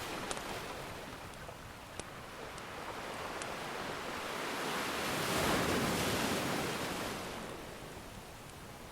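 Ocean surf: one wave swells up, loudest a little past the middle, and washes back down. A few sharp crackles from a wood fire pop over it.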